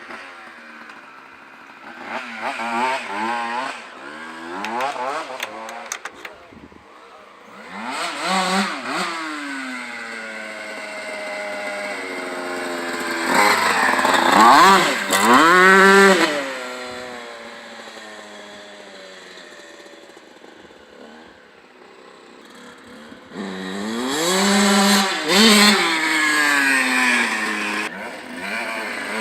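A 2000 Honda CR125R's two-stroke 125 cc single being ridden with repeated bursts of throttle, the engine note climbing high and dropping back several times. The loudest runs come near the middle and again before the end. The engine is not yet warmed up, its carburettor is uncleaned, and its silencer has no packing at all.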